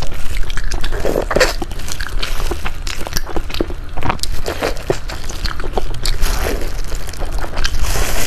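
Close-miked eating of pork soup dumplings: chewing and wet mouth clicks, mixed with the crinkle of noisy disposable plastic gloves.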